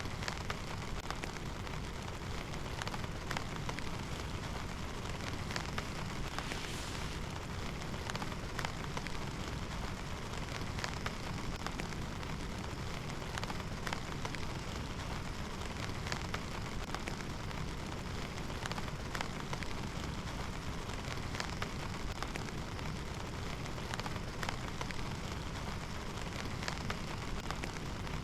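Steady heavy rain falling, with many sharp, close drop impacts ticking over the constant hiss.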